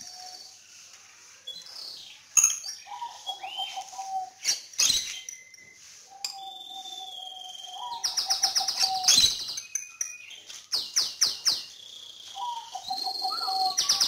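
Small caged birds chirping and trilling, with several bursts of fast high trills, the longest around the middle and near the end, and drawn-out lower whistled notes in between. A few sharp clicks are also heard.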